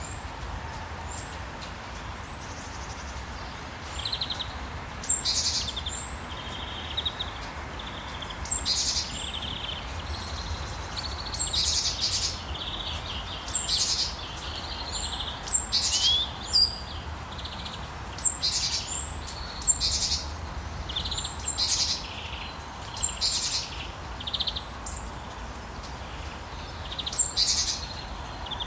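Birds chirping and calling over and over, short high notes every second or two, over a steady low background rumble.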